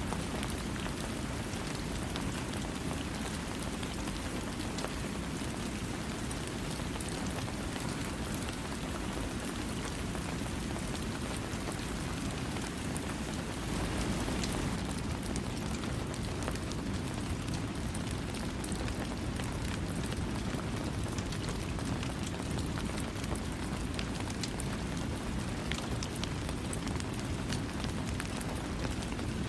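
Steady rain falling on surfaces, an even hiss with many fine drop ticks and no thunder, swelling slightly about halfway through.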